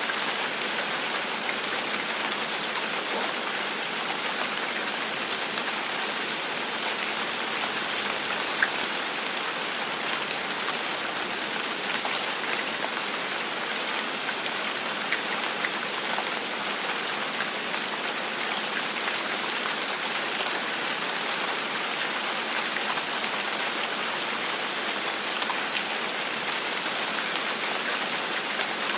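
Steady rain falling on a hard surface: an even hiss of many drops with scattered individual drop taps, with no thunder.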